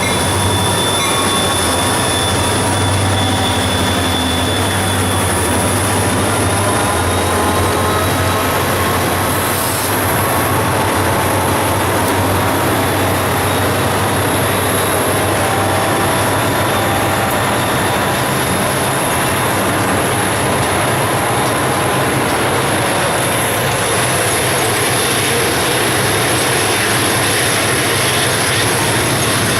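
Freight train rolling past at close range: a steady roar of steel wheels on rail with thin, high wheel-squeal tones. A low diesel drone weakens about a third of the way through.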